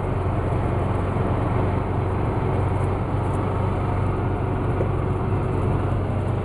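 Golf cart riding along steadily: a constant low rumble with an even rush of noise over it.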